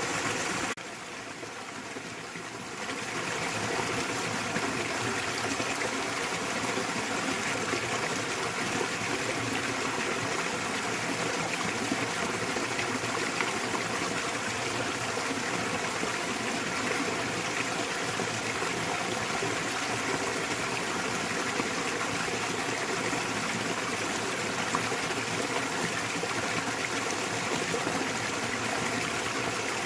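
Small waterfall pouring steadily into a mountain stream, an even rushing and splashing of water. It dips quieter briefly about a second in and returns to full level a couple of seconds later.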